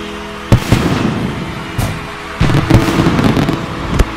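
Aerial fireworks shells bursting: a series of sharp bangs, one about half a second in, a cluster of several near the middle and one near the end, with crackle between them, over a steady low hum.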